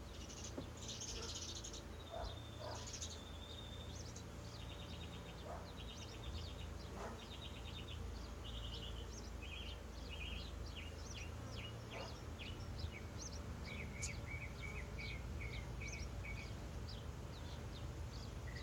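Small birds chirping and trilling, with many short high calls and rapid trilled phrases one after another, over a low steady hum.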